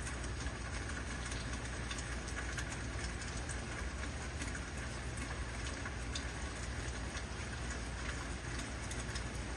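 Heavy rain falling steadily, with many sharp individual drop hits over a dense wash of rain and a steady low rumble underneath.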